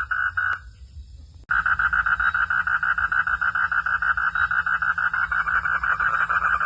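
Frog calls at night: a rapid, evenly pulsed trill that breaks off about half a second in and comes back suddenly a second later, pulsing faster. A faint steady hum runs underneath.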